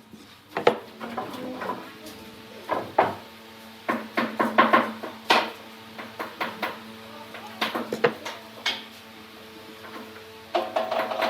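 Irregular knocks and clatter of hard objects, some sharp, over a steady hum.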